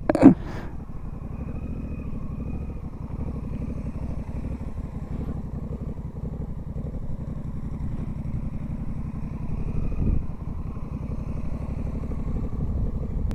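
Motorcycle engine running steadily at low speed during slow parking-lot manoeuvres, with a brief surge about ten seconds in.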